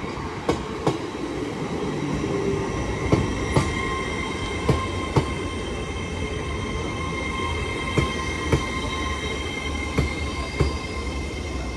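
TransPennine Express Class 802 train pulling into the station: a low rumble with a steady high squeal, and pairs of sharp clicks as each bogie's wheels cross a rail joint, repeating every couple of seconds.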